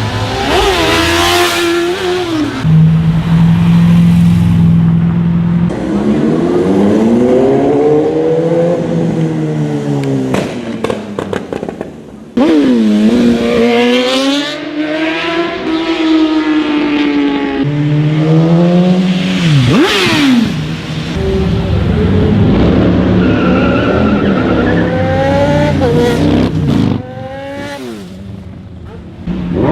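High-revving superbike engines, one clip after another, cut abruptly several times. The engines hold a steady rev, then climb and fall sharply in pitch as they are revved and ridden hard.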